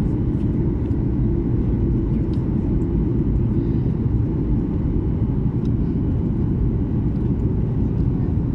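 Steady low rumble of an airliner's engines and airflow heard inside the passenger cabin during descent.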